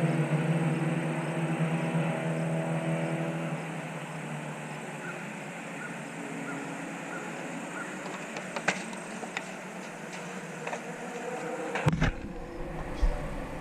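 A race car's engine note fading away over the first few seconds as the car moves off. Then a steady background of distant race cars on the circuit, with a few sharp clicks and a low thump near the end.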